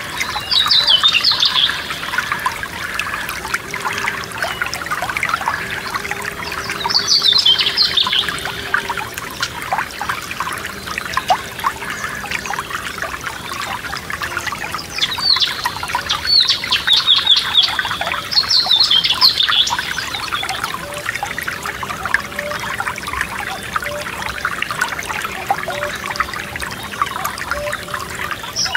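Forest stream trickling and splashing steadily, with a songbird singing short, high trilled phrases about five times, each about a second long.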